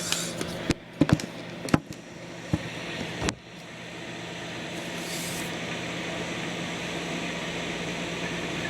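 A few sharp clicks and knocks, like a microwave oven's door and keypad being worked, then from about three seconds in the microwave oven running with a steady hum and fan noise.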